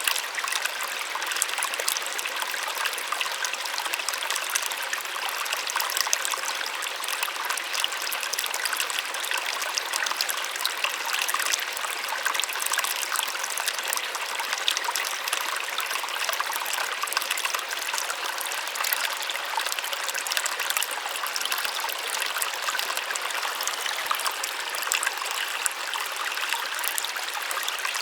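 A small waterfall splashing steadily, a soft, even rush of falling water with fine splashing and no deep rumble.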